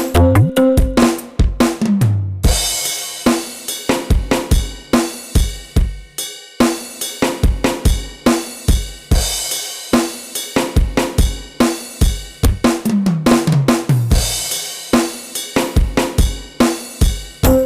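Drum kit with heavy bass played from the ORG keyboard arranger app on a phone: a steady beat of deep kick, snare, hi-hat and cymbal, with a falling tom fill about a second in and another near two-thirds through.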